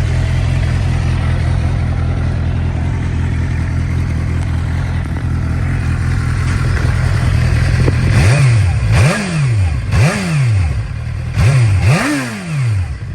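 2009 Suzuki GSX-R750's inline-four engine idling steadily, then blipped five times in quick succession, each rev rising and falling back, the last one the highest.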